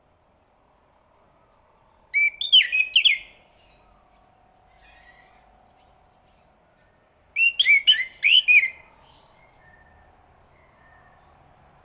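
Chestnut-capped thrush singing: two short, quick warbling phrases about five seconds apart.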